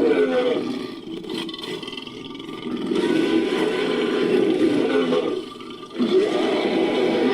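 Designed creature roar mixed from layered ape, big-cat and monster roars: a low, rough growling roar that weakens about a second in, swells again around three seconds, breaks off briefly near six seconds and starts up again.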